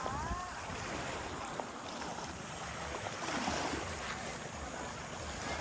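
Small sea waves washing on the beach, with wind rumbling on the microphone.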